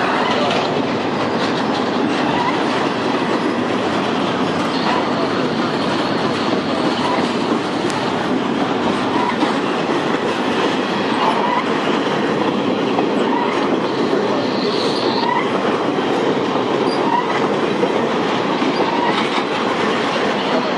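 Intermodal freight train's double-stack well cars rolling past: a steady rumble of steel wheels on rail, with regular clicks over rail joints about once a second and brief faint high wheel squeals at times.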